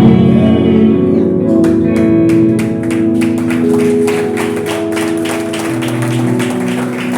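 Church worship music without singing: sustained instrumental chords, joined about a second and a half in by a steady beat of sharp taps several times a second.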